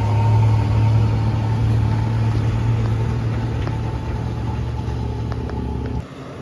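Heavy truck's diesel engine labouring up a climb: a steady low drone that slowly fades, then drops away abruptly near the end.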